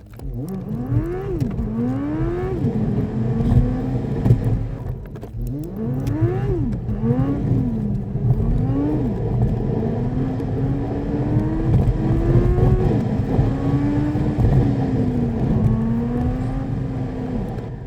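Car engine and exhaust accelerating through the gears, played back at double speed: the revs climb and drop sharply at each upshift several times, then hold at a cruising level, rising and falling gently, before fading out near the end.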